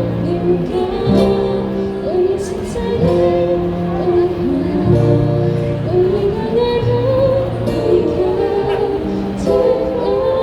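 Live band music from street buskers, with a sung melody over held bass notes.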